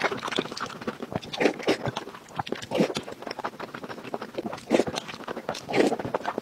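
Close-miked chewing of braised pork belly and rice: wet smacking and quick mouth clicks, with a few louder smacks every second or so.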